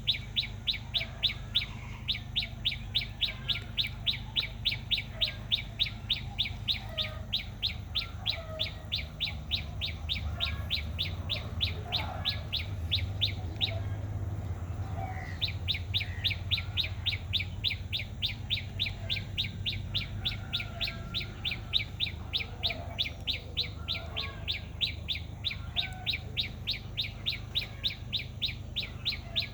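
A bird singing one short, high note over and over at about three to four notes a second, with a pause of a second or two about halfway through before it starts again.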